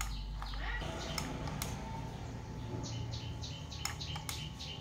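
Small birds chirping in short repeated high notes, a quick run of them starting about three seconds in, with a few sharp clicks mixed in.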